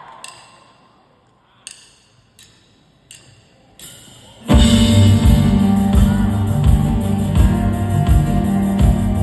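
A crowd cheer dies away, then four sharp clicks about 0.7 s apart, like drumsticks counting in. About four and a half seconds in, a live rock band comes in together: drums with a steady kick-drum beat, bass and guitars.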